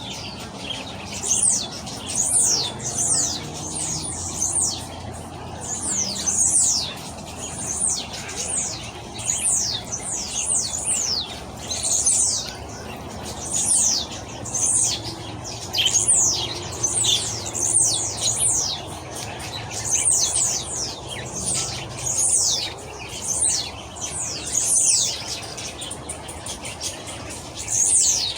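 Small birds chirping: many short, high-pitched calls that slide quickly downward, coming in quick runs of several at a time and repeated throughout.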